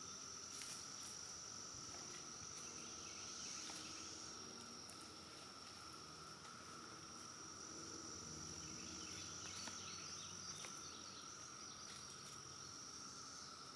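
Faint, steady, continuous insect trilling from a summer field, with a few faint clicks.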